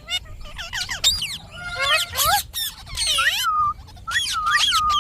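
Indian ringneck parakeet calling: a rapid run of high, sliding calls with short gaps between them.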